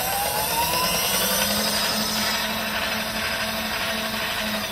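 Servo power feed motor driving the milling machine's table. Its whine rises in pitch until about a second in as the speed is turned up, then runs steadily over a low hum.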